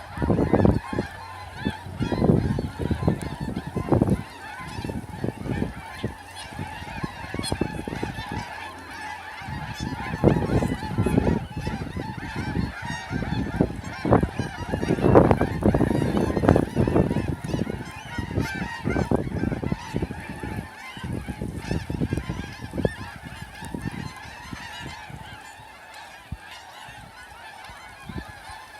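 Small vehicle engine running at a steady pitch, with irregular gusts of wind buffeting the microphone. The gusts ease off near the end.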